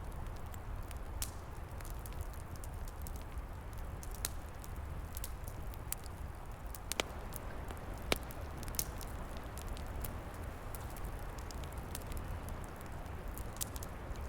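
Wood fire crackling, with frequent sharp pops that are loudest about seven and eight seconds in, over a steady low rumble.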